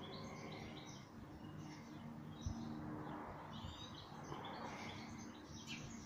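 Small birds chirping and twittering in quick, repeated calls over a faint low hum. A single short thump sounds about two and a half seconds in.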